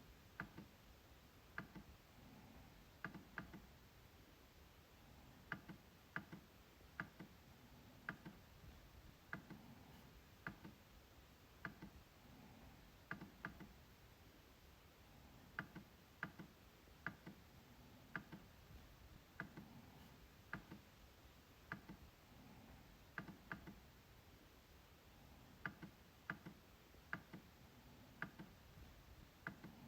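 MacBook trackpad being clicked: short, sharp clicks at an irregular pace of one or two a second, many coming in quick pairs of press and release.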